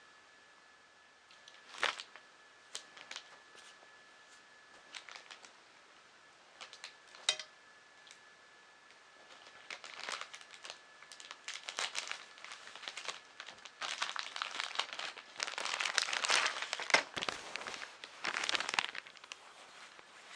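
Plastic packaging of kit parts being handled and unwrapped: scattered clicks and taps at first, then continuous crinkling and tearing from about halfway, loudest near the end.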